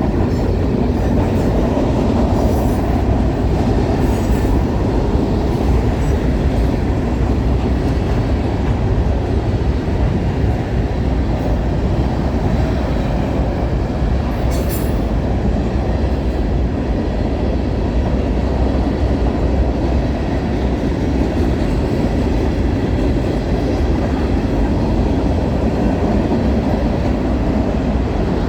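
Freight train cars rolling steadily past on the rails: a continuous loud, low rumble of wheels on track, with a couple of brief high-pitched touches, the clearest about 15 seconds in.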